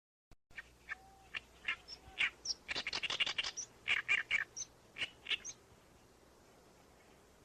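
Birds chirping in short, sharp calls, with a quick run of rapidly repeated chirps about three seconds in.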